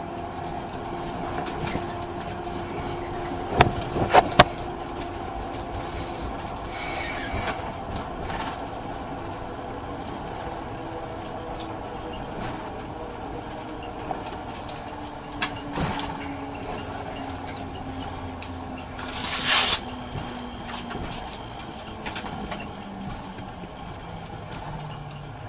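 A vehicle running, with steady engine hum and road noise. Several sharp knocks come about four seconds in and again near sixteen seconds, and a short loud rush of noise comes near twenty seconds.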